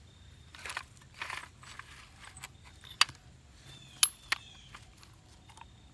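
Handling noise: rustling and a few sharp clicks of small hard objects being moved, loudest about three and four seconds in, with faint bird chirps behind.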